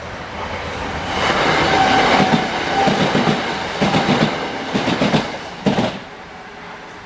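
Train passing close by. It builds up over the first second, with a steady whine early on, and its wheels clack over the rail joints in quick groups. The last clacks come about six seconds in, and then the sound drops away.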